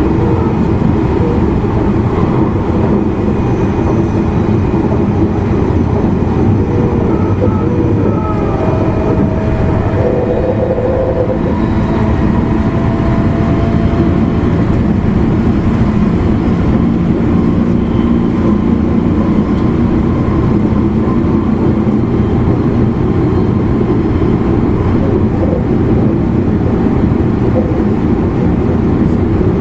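Running noise inside a JR East E259 series electric train's motor car: a steady rumble of wheels on rail, with faint electric motor tones, one of which glides slowly upward about 8 to 12 seconds in.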